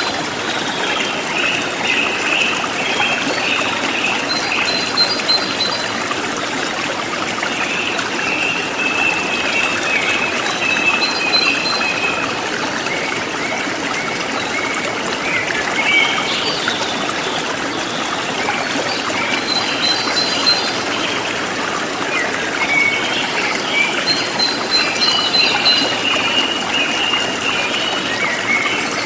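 A forest stream flowing steadily, with small birds chirping and singing repeated short phrases over the water throughout.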